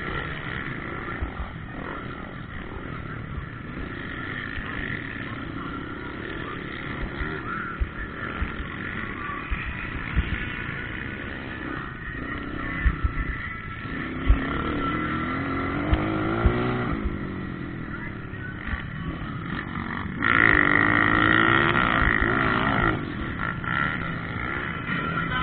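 Motocross bikes running on the track, engines revving up and down as they pass. The loudest pass comes about twenty seconds in and lasts a few seconds.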